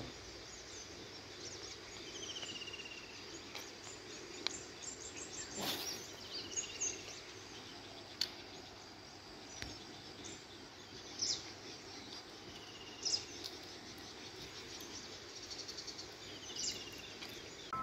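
Wild birds calling: a short, falling trilled call repeats about every three to four seconds among scattered high chirps, over a faint steady background hiss. A single sharp click comes about six seconds in.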